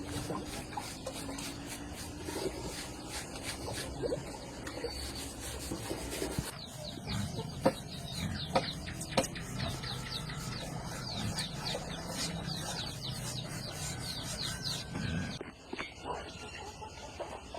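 Chickens clucking and chirping, with three sharp knocks a little past the middle.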